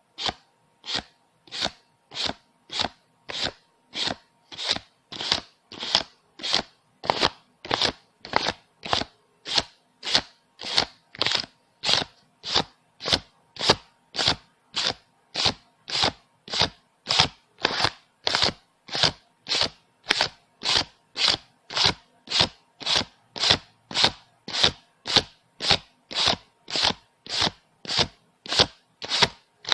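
Paper banknotes being counted by hand, one bill flicked off the stack at a time, each giving a short crisp paper snap. The snaps come in a very even rhythm of just under two a second.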